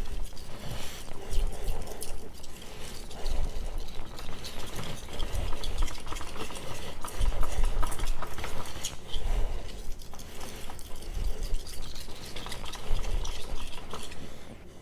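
Steel knife blade being stroked back and forth across a wet whetstone in freehand sharpening, a repeated gritty scraping that swells and fades with each stroke.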